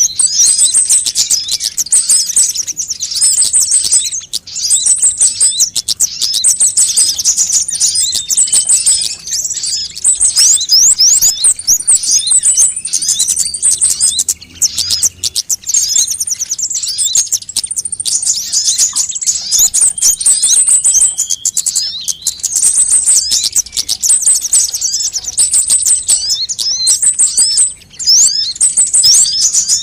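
Sunbirds calling: dense, rapid, high-pitched chirps and trills in repeated phrases with short breaks, a bird-lure recording of kolibri song.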